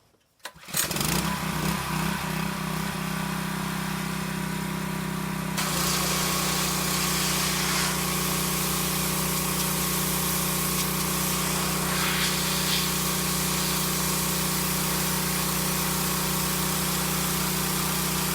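Gasoline pressure washer's 212cc engine running steadily, the sound starting abruptly about half a second in. About five and a half seconds in, a loud hiss of high-pressure water spray joins it and continues.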